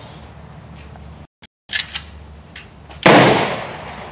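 Honor-guard rifle volley: a single sharp crack of several rifles firing together about three seconds in, with a long echoing decay, part of a volley salute. A few faint clicks come before it.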